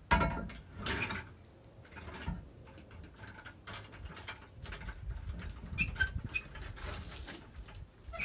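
A sharp metal clank, then a run of clicks, knocks and rattles from tools and metal parts being worked under a classic Mini as its rear subframe is supported for dropping.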